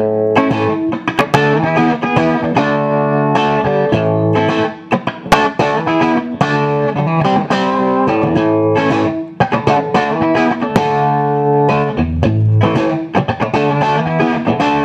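Fender '57 reissue Stratocaster electric guitar played straight into a Marshall Plexi amp with no effects: a continuous passage of picked chords and single notes with many sharp attacks.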